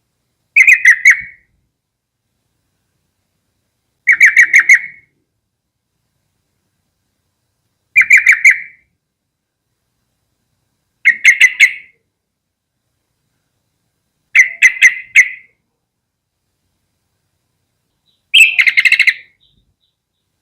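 Yellow-vented bulbul calling: six short bursts of rapid chattering notes, about three to four seconds apart.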